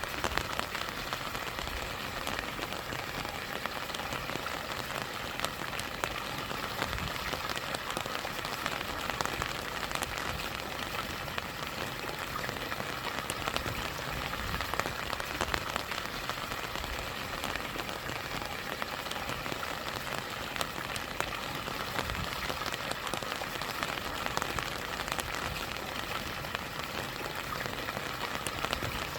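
Steady rain with many small drop ticks, over the continuous rush of stream water and a small waterfall.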